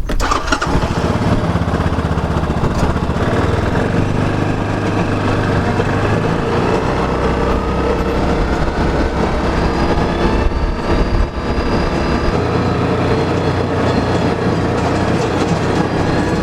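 Side-by-side utility vehicle driving with a trailer hitched behind, its engine running steadily under a continuous rattle and rumble of the drive. About halfway through, a whine rises in pitch over several seconds.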